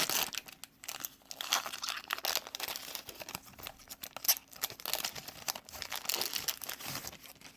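Wax card-pack wrapper being torn open and crinkled in the hands: a run of irregular crackles and tearing, loudest right at the start.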